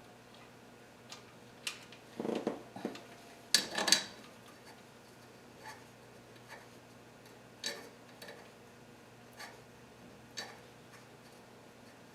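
Metal hand tools clicking and clinking while working on engine bolts, with scattered sharp clicks and a louder clatter about two to four seconds in.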